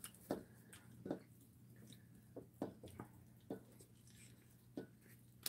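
Faint wet chewing and mouth smacks of someone eating sauce-coated fried chicken, with small sharp clicks every second or so, over a low steady hum.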